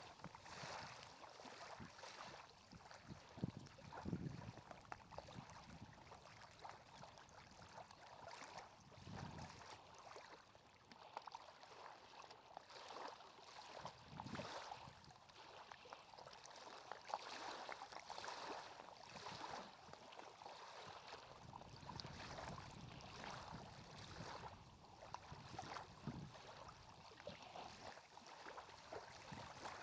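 Faint water sounds: soft, irregular lapping and small splashes of lake water.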